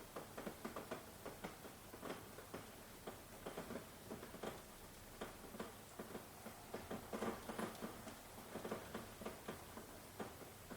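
Rain, with heavy drops pattering irregularly, several a second, over a faint steady hiss.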